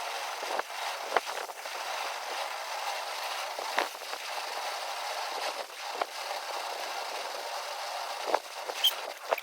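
Wood campfire burning with a steady hiss and irregular sharp crackles and pops, a few louder snaps about a second in, around four seconds, and near the end.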